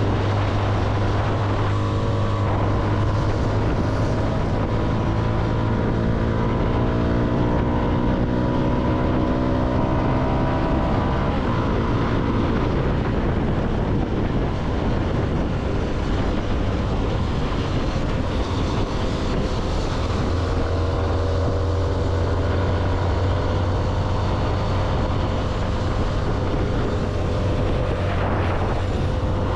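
CFMoto motorcycle engine running under way with wind and road noise, the engine note climbing in pitch twice as the bike accelerates, once a couple of seconds in and again past the halfway point.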